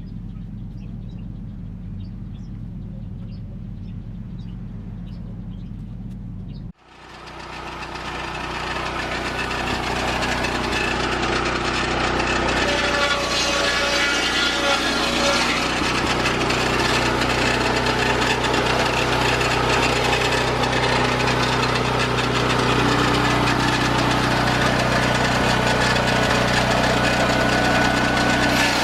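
Portable Lucas sawmill: its engine runs low and steady, cuts off suddenly about seven seconds in, then comes back and builds up over a few seconds to a loud, steady run as the circular blade saws through wood.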